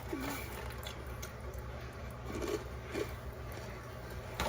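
A person chewing a mouthful of yogurt mixed with granola, with a few brief hums.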